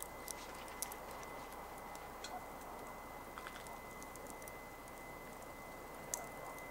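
Campfire crackling: irregular sharp pops and snaps from the burning wood over a low steady hiss, with a louder snap near the end.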